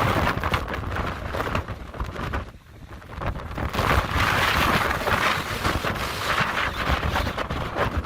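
Gale-force wind gusting over the microphone: a loud, rumbling rush that dies down briefly about two and a half seconds in and then comes back.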